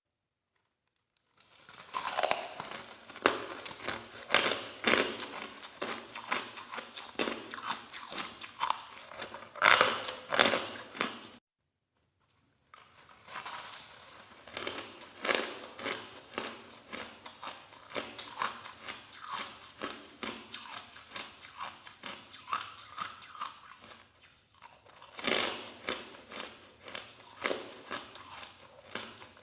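Crushed soft ice being bitten and chewed: a dense, irregular run of crunches that stops for about a second some eleven seconds in, then starts again.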